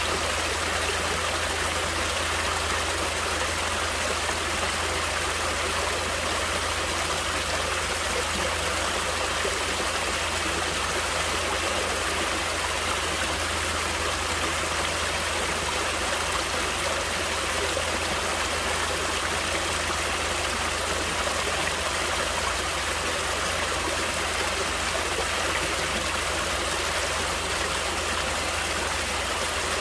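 Natural flowing water of a stream, a steady rushing that stays even throughout.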